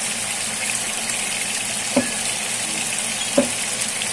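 Chicken pieces sizzling in a wok with their seasoning sauces and rice wine, a steady hiss, with two short knocks about two seconds in and again near the end.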